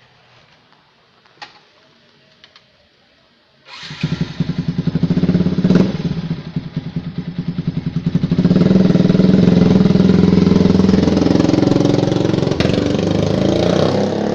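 Yamaha Vixion single-cylinder motorcycle with a custom R9 racing exhaust starting up about four seconds in, then running with an uneven, pulsing beat before settling into a steadier, louder run from about halfway.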